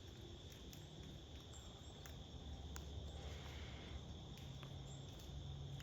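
Crickets trilling steadily and faintly over a low background rumble, with a few small scattered clicks.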